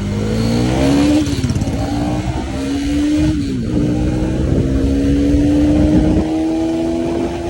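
KTM Duke 250's single-cylinder engine accelerating hard through the gears. Its pitch climbs, drops at two upshifts about a second and three and a half seconds in, then rises slowly and steadily.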